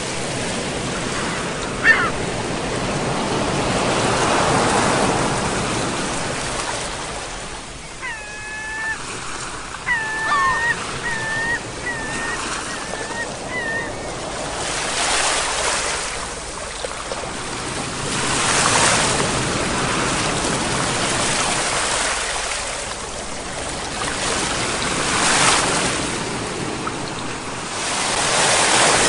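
Sea waves breaking and washing in, rising and falling in swells every few seconds. A bird calls in a quick run of short cries for several seconds near the middle.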